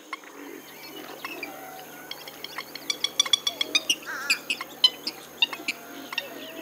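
Western swamphen calling: a string of short, sharp clicking and cackling notes, coming fastest at about five a second in the middle stretch, with a few wavering pitched notes mixed in.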